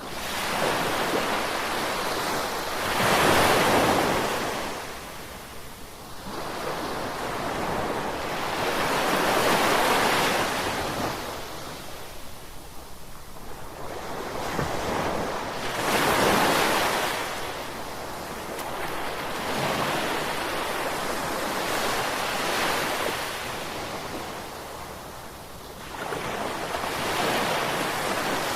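Ocean waves breaking and washing on a shore, each swell rising and falling back every few seconds, with the loudest breaks about 3, 10 and 16 seconds in.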